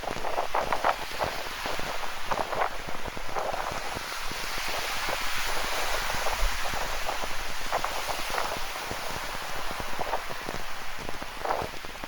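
Rain falling, with many close drops pattering irregularly over a steady rushing hiss of ocean surf. The hiss swells through the middle.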